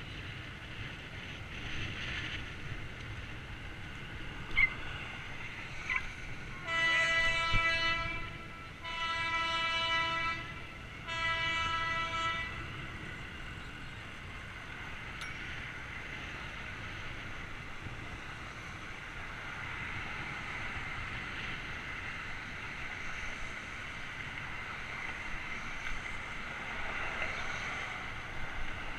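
A horn sounds three long blasts, each about a second and a half long with short gaps between them, over steady background noise from the ride. A short sharp click comes a couple of seconds before the first blast.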